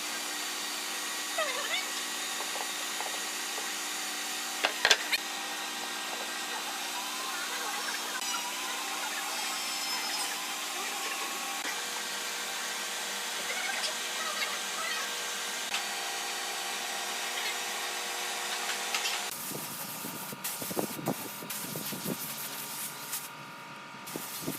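An electric power tool running steadily on wood, with a few sharp ticks. About nineteen seconds in the sound changes abruptly to a different, patchier tool noise.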